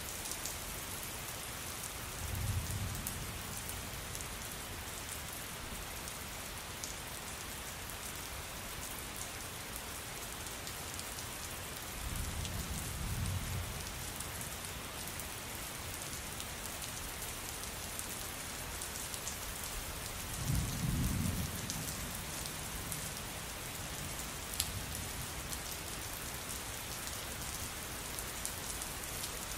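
Steady rain falling on a surface, with fine drip ticks, and low rumbles of thunder three times: about two seconds in, near the middle, and about two-thirds of the way through.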